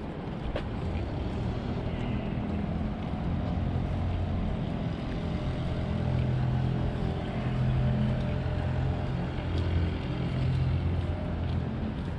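Low, steady engine hum that swells a little in the middle and eases off near the end.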